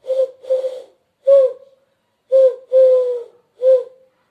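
Laughing dove cooing: a string of soft, low notes at one steady pitch, about six of them in two short phrases, the longer notes dipping slightly at their ends.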